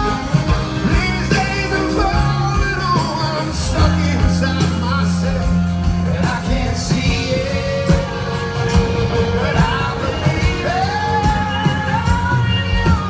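Live rock band playing, with steady drums and bass under long held and sliding sung notes.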